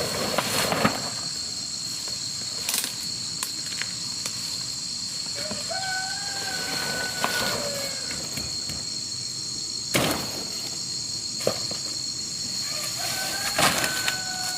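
Steady high-pitched insect drone, with a few sharp knocks and a thin held call heard twice, about six seconds in and near the end.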